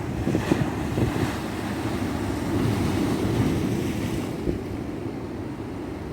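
Ocean surf washing onto a beach: a continuous rush of water that swells in the first few seconds and eases off about four seconds in.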